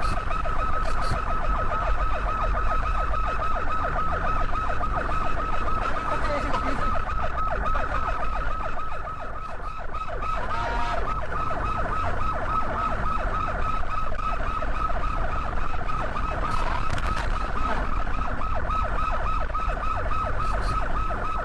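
Police siren sounding continuously in a fast, repeating warble, over a low rumble of road and engine noise.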